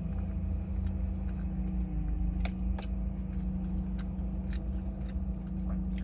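A man chewing a spoonful of food inside a car's cabin, with a few small sharp clicks from his mouth and the spoon and plastic container, over a steady low hum in the car.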